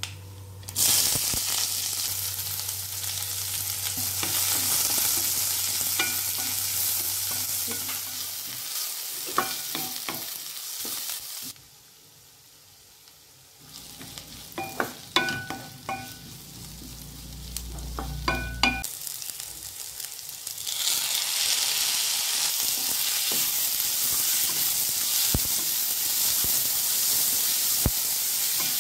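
Sliced onions sizzling in hot oil in a kadai, the sizzle starting abruptly about a second in as they go into the pan. Midway the sizzle drops away, and a spoon clinks against the pan several times while stirring. Then a loud sizzle returns as onions and chopped tomatoes fry together.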